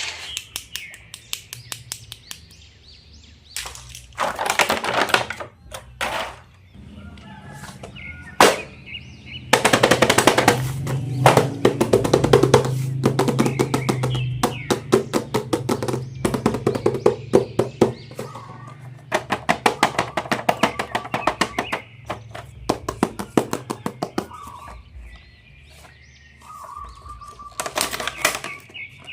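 Rapid runs of plastic clicking and rattling from toy packaging and figures being handled, over background music.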